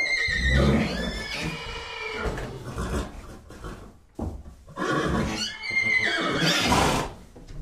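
A horse whinnying twice. Each whinny opens with a high squeal and breaks into a lower, shaking call. The second ends in a noisy breath near the end.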